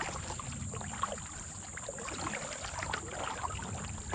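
Kayak paddling: the paddle blade dipping into the water, with small irregular splashes and drips.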